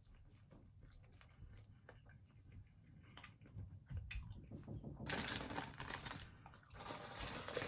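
Close-up eating sounds: soft chewing with small mouth clicks, then two longer stretches of louder crackling noise in the second half.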